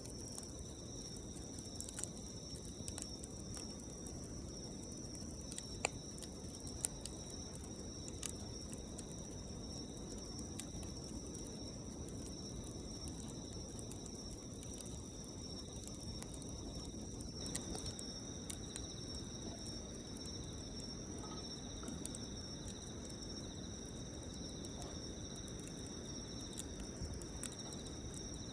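Campfire burning with a low steady rustle and scattered sharp crackles and pops, the two loudest about six and seven seconds in. A steady high-pitched trill runs behind it, with a second, slightly lower one coming in strongly about halfway through.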